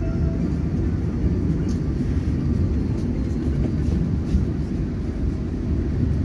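Steady low rumble inside a carriage of the Gumarang passenger train.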